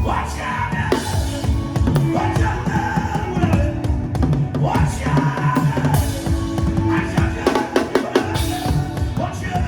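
Drum kit played in a dense, fast pattern of bass drum, snare and rimshot strokes over backing music with a steady bass line.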